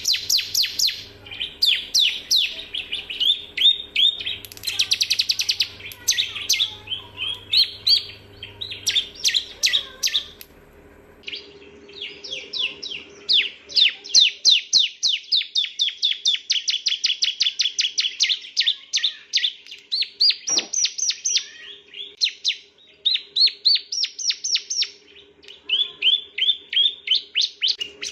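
Male bar-winged prinia (ciblek) singing: long, fast runs of sharp repeated chirps, several a second, with a brief pause about eleven seconds in.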